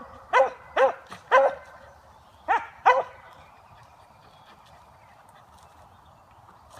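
Beagle hound barking in five short, pitched barks over about three seconds, then stopping. This is the bay of a hound running a scent trail.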